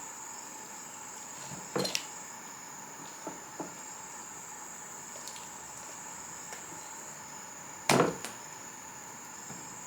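A few separate sharp chops or knocks on wood, the loudest about eight seconds in, over a faint steady high-pitched tone.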